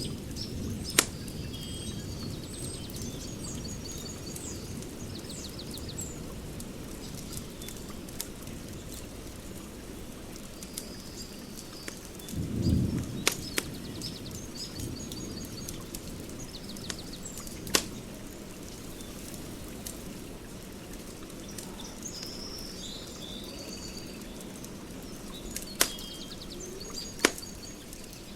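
Wood fire burning with a steady low rumble and a few sharp crackling pops, while birds chirp and trill in the background. A short low rumble swells up about twelve seconds in.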